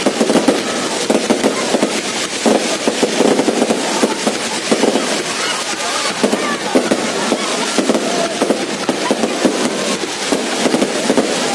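Fireworks going off continuously, a dense run of sharp cracks and bangs in quick succession.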